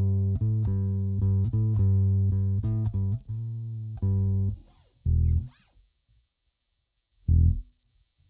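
Epiphone EB-0 SG electric bass played as a run of single plucked notes for about four and a half seconds. Then comes a lone note, a pause of about a second and a half, and one short note that slides down in pitch.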